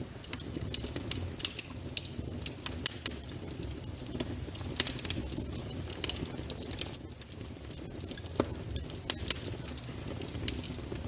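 Wood fire crackling in a fireplace: irregular sharp snaps and pops, a few louder than the rest, over a low steady rumble of the flames.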